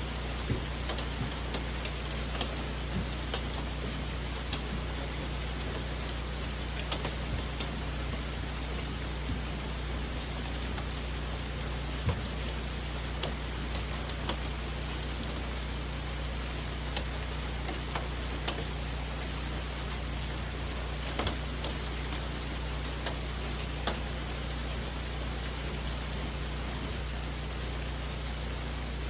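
Steady rain falling in a forest, with scattered louder single drops hitting close by.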